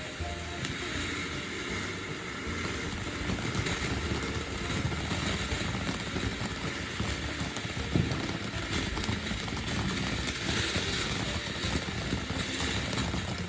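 Consumer firework cake going off in a continuous barrage of crackling and popping, with one sharper bang about eight seconds in.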